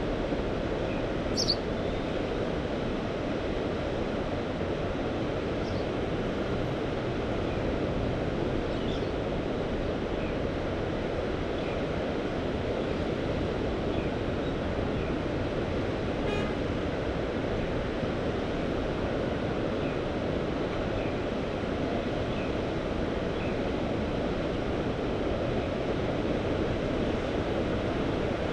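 Steady, even wash of Mediterranean sea waves, with a short high chirp about a second and a half in.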